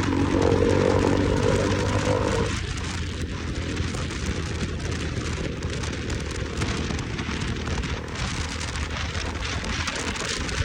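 Motorcycle riding with heavy wind rush on the microphone and a low engine hum; the engine's higher note drops away about two and a half seconds in, as when easing off the throttle.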